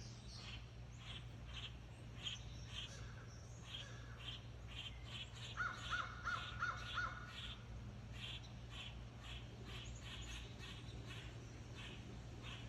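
Crows cawing: a quick run of five caws about six seconds in, over a steady stream of short, repeated bird calls.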